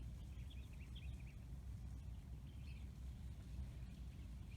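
Faint bird chirps, a few short calls around a second in and again a little past the middle, over a low steady background rumble.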